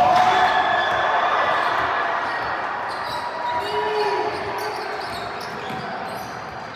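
Basketball game in a gym: a ball bouncing on the court while spectators shout and cheer, the cheering loudest at the start and fading over the next few seconds.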